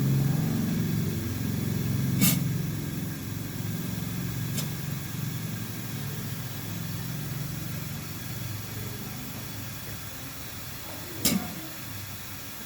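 A low mechanical hum that fades gradually, with a sharp click about two seconds in, a fainter one a couple of seconds later, and another near the end.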